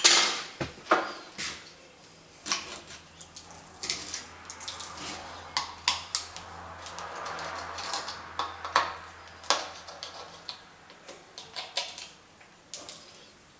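A hand tool scraping and tapping at plaster around an old flush-mounted wall switch, working it loose: irregular sharp clicks and knocks with stretches of scratchy scraping.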